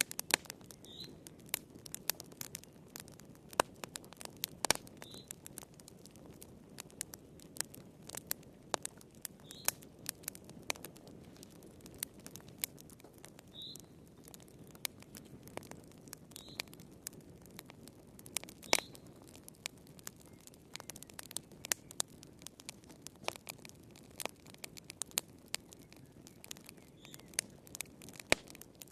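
Wood fire crackling in a fireplace: irregular sharp snaps and pops over a steady low hiss of flame, with a few faint, short high squeaks every few seconds.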